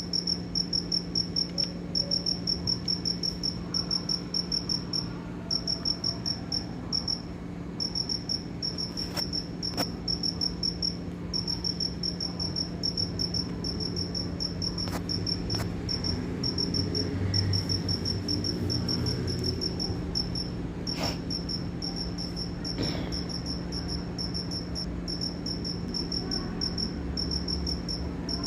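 A cricket chirping: a fast, even train of short high-pitched chirps in runs broken by brief pauses, over a steady low hum.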